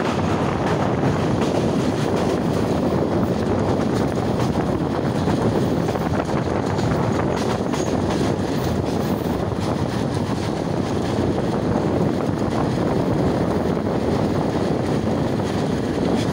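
Moving train heard from an open window or doorway: a steady, unbroken rumble of the carriage running on the rails, mixed with wind rushing past the microphone.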